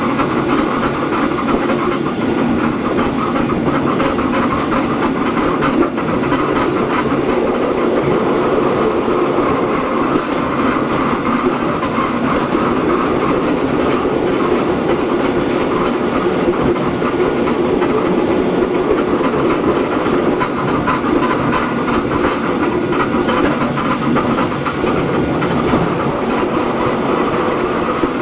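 Hakone Tozan Railway Moha 1-type electric car running steadily, heard from inside the car. Wheels rumble and clatter on the rails under a steady hum from its nose-suspended SE121-A traction motors and gearing.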